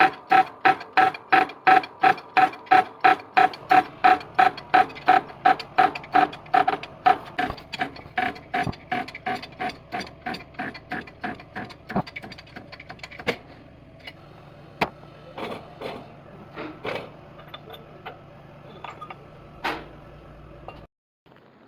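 Regular metallic clicking with a ringing note, about three clicks a second, dying away over about ten seconds. Then a few scattered clicks and knocks.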